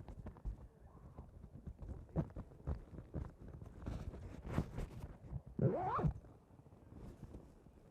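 Irregular knocks and footstep-like thumps, with a short rising voice-like sound about six seconds in.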